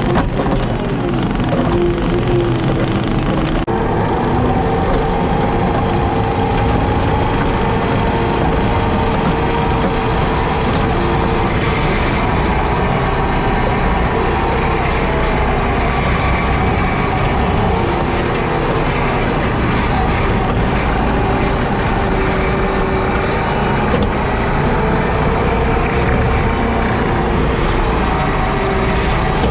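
JCB teleskid skid steer's diesel engine running steadily while driving a 7-foot Jenkins bush hog rotary cutter, a constant loud drone whose hum wavers slightly in pitch.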